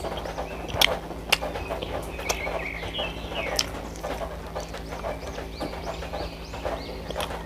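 Close-up eating sounds of someone chewing, with sharp mouth clicks, the loudest about a second in and a second and a half in. Birds chirp repeatedly in the background over a steady low hum.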